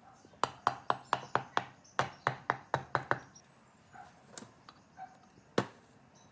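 Sharp knocks, as of a tool striking a hard part: two quick runs of about six strikes each, roughly five a second, then one louder single knock near the end.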